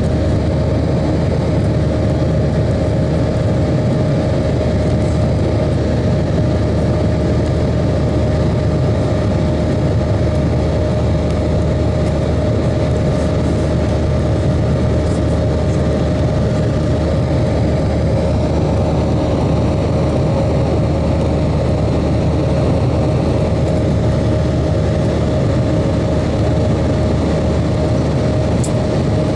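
Airbus A320-232's IAE V2500 turbofan engines running steadily under takeoff power: a constant, loud rushing noise with a steady hum tone running through it.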